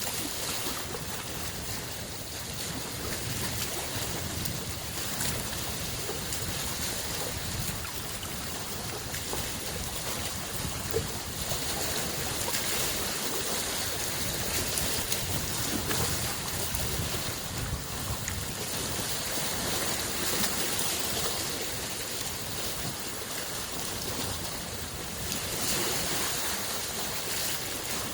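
Small lake waves washing against the shore: a steady wash that swells every few seconds as waves come in.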